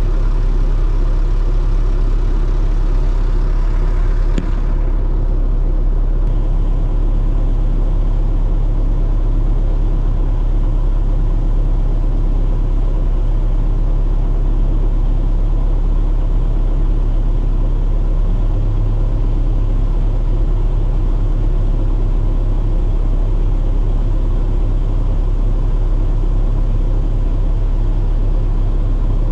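Heavy farm machinery's diesel engine running steadily with a deep, loud rumble. A short click comes about four seconds in, after which the high hiss drops away.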